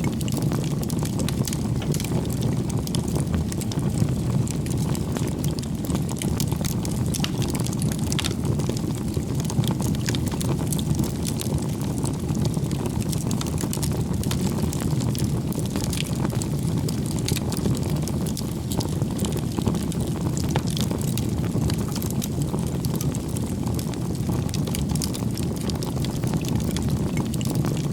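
Bonfire of firewood burning: a steady low roar of flames with frequent small crackles and pops.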